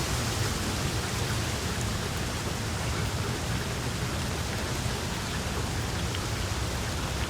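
Small wood fire crackling in a fireplace: a steady hiss with scattered faint pops.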